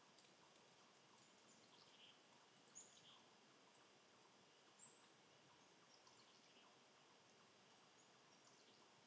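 Faint outdoor background hiss with a few brief, high bird chirps in the middle, the loudest about three seconds in.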